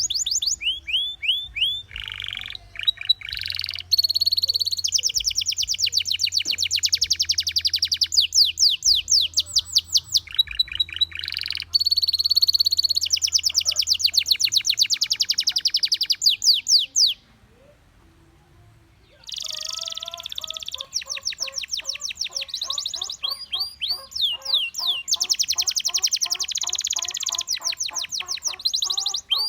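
Gloster canary singing in long runs of fast repeated trilled notes, with a pause of about two seconds a little past halfway before the song resumes.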